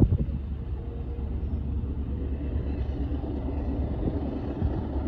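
Low, steady rumble of a freight train's diesel locomotives approaching slowly in the distance.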